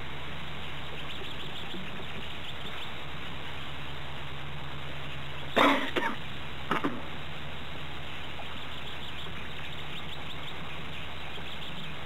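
Faint birds chirping over a steady hiss and low hum, broken about five and a half seconds in by one short loud noise and a smaller one about a second later.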